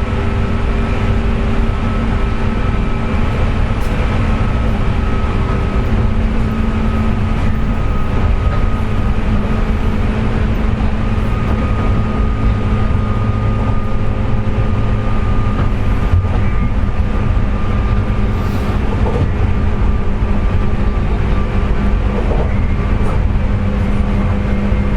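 JR West 201 series electric train (motor car MoHa 201-280) running at speed, heard from inside the car: steady wheel-and-rail rumble under an intense jet-like whine made of several steady tones. The whine comes from traction motor bearings damaged by electrical pitting (electrolytic corrosion).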